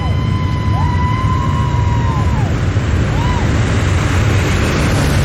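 A stream of motorcycles running past in a steady low drone. Over it in the first three seconds are a held high tone and a few short rising-and-falling whoops, of the siren or horn kind.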